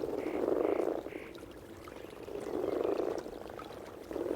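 Breeding chorus of alpine frogs croaking together in the spawning shallows. It is a low, buzzing drone, loudest in the first second and again from about two and a half to three seconds in, easing off in between.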